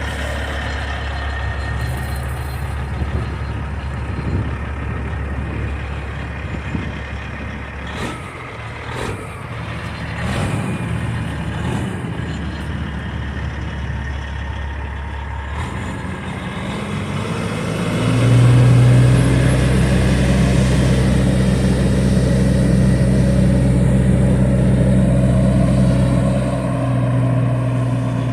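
Motor vehicle engines running steadily. About eighteen seconds in, a louder, steady engine drone takes over and holds until near the end.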